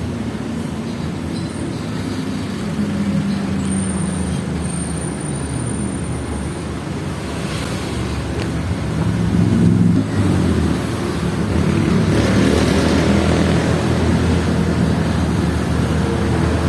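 A motor vehicle's engine running in road traffic, its pitch shifting as it speeds up and slows, louder from about halfway through.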